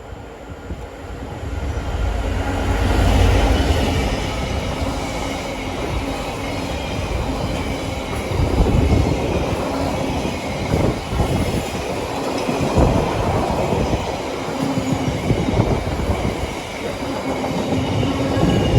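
A Class 66 diesel-electric locomotive passes at speed, its two-stroke V12 engine rumbling loudest about three seconds in. A long train of engineering wagons then runs by, with repeated wheel clacks over the rail joints.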